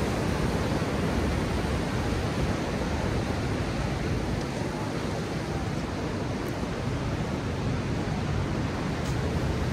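Heavy surf with strong wind: a steady rush of breaking waves mixed with wind, with no single wave standing out.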